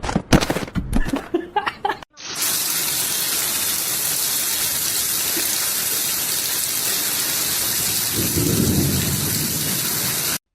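A steady, even hiss of rushing or falling water begins about two seconds in, with a low rumble near the end. Before it come about two seconds of short, choppy sounds with voices.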